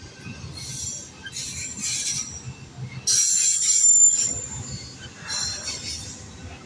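Wheels of a loaded manifest freight train squealing against the rails as the cars roll past, over a low rumble. The squeal comes in several high-pitched bursts, the loudest a sharp, ringing screech about three seconds in.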